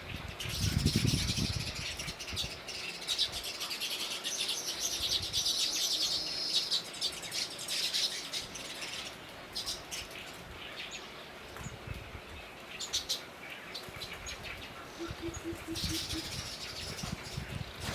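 Small birds chirping in quick, dense twitters, busiest in the first half, with low thuds about a second in and again near the end.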